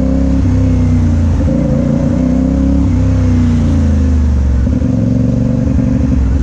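Motorcycle engine running while riding, its pitch rising and falling several times as the throttle opens and closes.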